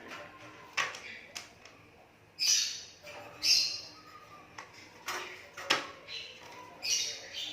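Hand-fed young Asian pied starling (jalak suren) calling: three loud, harsh calls about a second and then three seconds apart, with sharp short clicks between them.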